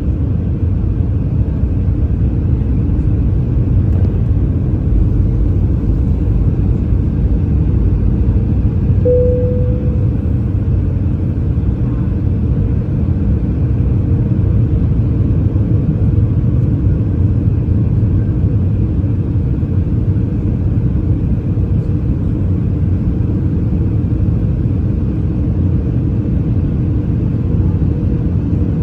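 Airbus A319 airliner after touchdown: a steady low rumble of the engines and of the aircraft rolling on the runway, with a short tone about nine seconds in.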